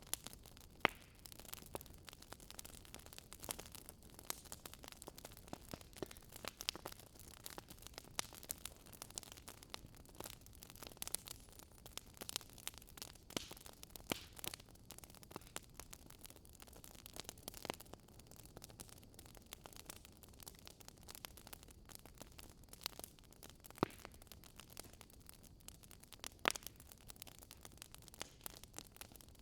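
Wood fire crackling: a steady stream of small, irregular pops and snaps over a faint hiss, with an occasional louder pop.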